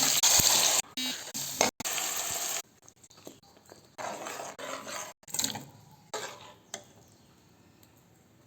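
Food sizzling in a hot pan: a loud, even sizzle for about the first two and a half seconds, broken by brief cuts, then a few shorter, fainter bursts before it dies down.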